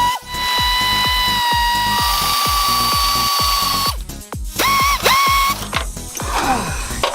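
An electric power tool's motor whines steadily at high speed, steps up slightly about two seconds in and stops near four seconds, then gives two short bursts, while unbolting the engine's air-filter structure. Background music with a steady beat plays throughout.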